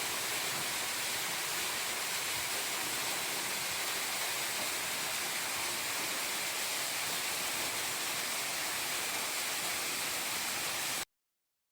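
Steady rush of a small waterfall, about 10 m high with a light flow, splashing onto rock. It cuts off abruptly near the end.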